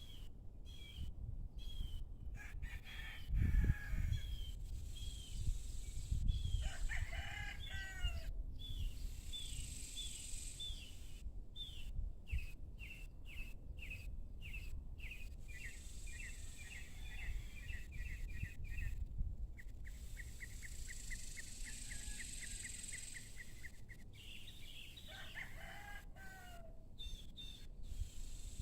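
A rooster crows twice, once about six seconds in and again near the end, each crow lasting about two seconds and falling in pitch at the end. Small birds chirp over and over in short repeated notes, with a fast trill for a few seconds in the middle, over a low rumble.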